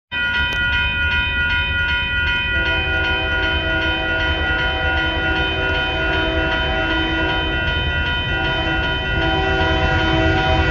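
Railroad crossing bell ringing in a steady repeating pulse over the low rumble of a Union Pacific freight train. From about two and a half seconds in, the locomotive's air horn sounds a chord in several long blasts with short breaks as the train rolls through the crossing.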